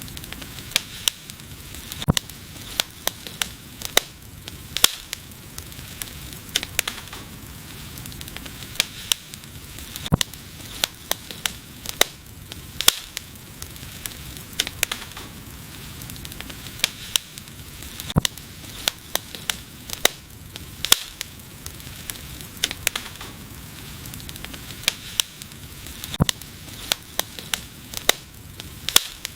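Wood fire burning: irregular sharp crackles and pops, several a second at times, over a steady hiss of the flames.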